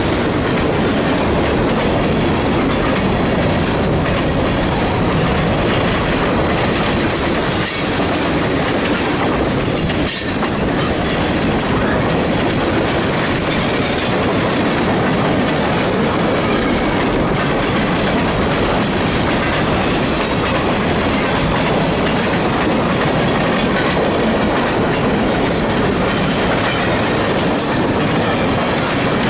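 Freight cars of a long mixed freight train rolling past close by, a steady loud rumble and clatter of steel wheels on the rails.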